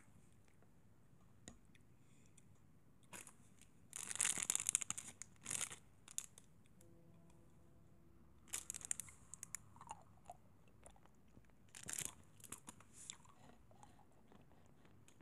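Close-miked crunching and crackling ASMR trigger sounds, coming in about four short bursts with quiet gaps between them.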